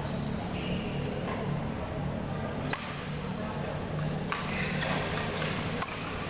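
Badminton rackets striking the shuttlecock in a rally: about five sharp hits, roughly one to one and a half seconds apart, ringing briefly in a large hall.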